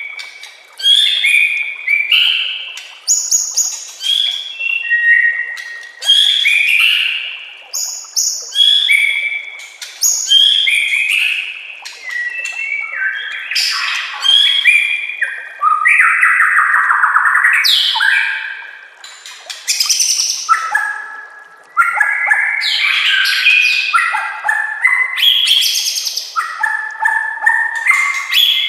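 White-rumped shama (murai batu) singing a loud, varied song of short whistled phrases that come one after another, later running together, with a harsh buzzy stretch in the middle; a song full of mimicked phrases of other birds (isian).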